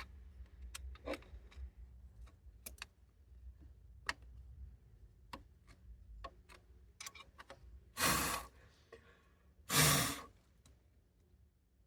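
Scattered light clicks and taps of hand tools on metal engine parts, then two loud, breathy sighs about a second and a half apart.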